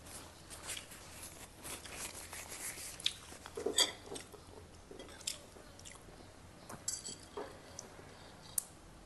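Close-miked chewing of a mouthful of food, with wet smacks and small crunches at irregular intervals, loudest about four seconds in. Near the end there is a brief sharp click, likely a spoon touching the bowl.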